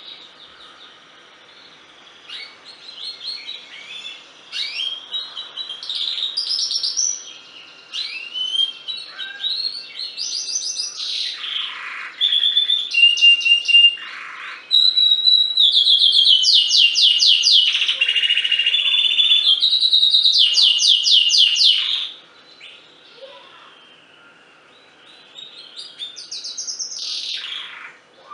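Domestic canary singing a long varied song of rapid trills, chirps and sweeping notes, with its loudest, fastest rolling trills in the middle and a short pause before a final phrase near the end.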